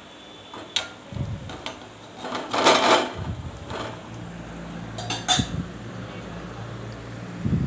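A metal spoon stirring pakodi frying in oil, clinking and scraping against the pan a few times, with the loudest scrape about three seconds in.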